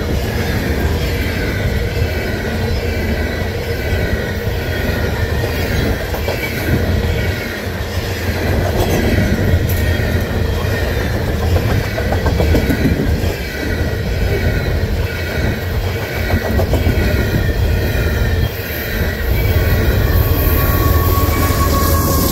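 Loaded grain hopper cars of a freight train rolling past, a steady heavy rumble of wheels on rail with a wavering high squeal from the wheels. Near the end it grows louder as the rear GE AC4400CW diesel locomotive, working as a distributed power unit, arrives, bringing in a slowly falling whine.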